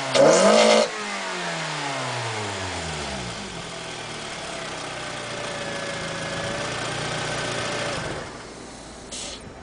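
Four-cylinder engine of a 2009 Toyota Corolla XRS with a K&N short ram intake and Magnaflow racing exhaust, given one loud, quick rev blip. The revs then fall back over a few seconds to a steady idle, and the engine sound drops away about eight seconds in.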